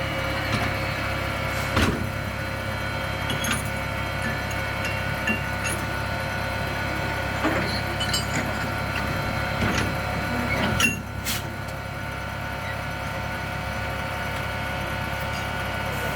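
Electric tram running, with a steady motor whine and occasional knocks and rattles.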